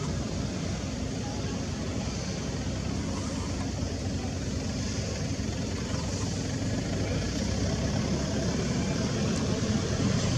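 Steady low rumble of an engine running, with a hiss of background noise, growing slightly louder near the end.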